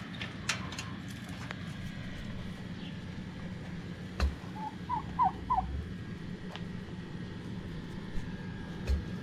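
A turkey gives a quick run of four short calls about five seconds in, over a steady low hum, with a couple of single knocks.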